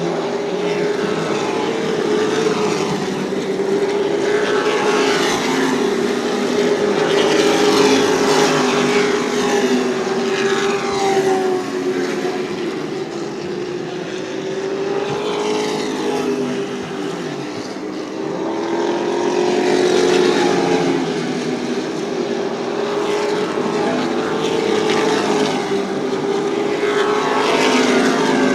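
Super Truck race engines running at speed around an oval, several engine notes overlapping and bending in pitch as the trucks pass. The sound swells twice, about a third of the way in and again past the middle.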